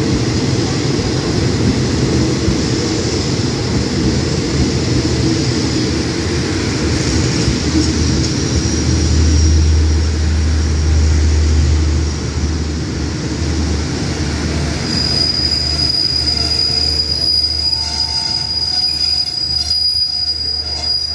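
Express passenger train's carriages rolling past and slowing alongside the platform, a steady rumble with a deep hum that swells briefly about nine seconds in. From about fifteen seconds in, a steady high-pitched squeal rings out as the train brakes to a stop.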